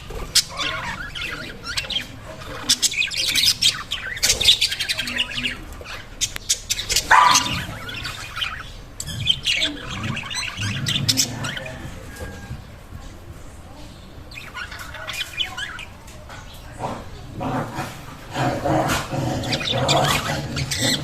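Several pet budgerigars chirping and warbling together in a steady, busy chatter, with sharp clicks and short squawks mixed in.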